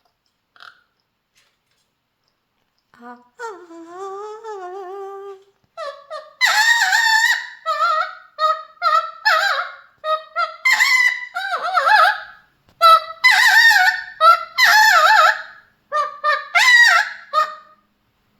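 Mealy Amazon parrot singing: after a few quiet seconds, a drawn-out wavering note, then a run of about a dozen loud calls one after another, each under a second long.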